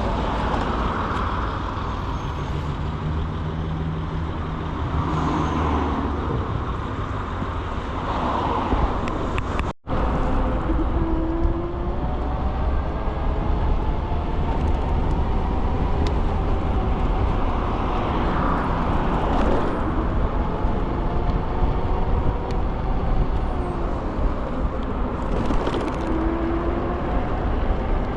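Wind and road rumble while riding an electric scooter in city traffic, with the swish of vehicles passing now and then. The sound cuts out for an instant about a third of the way in.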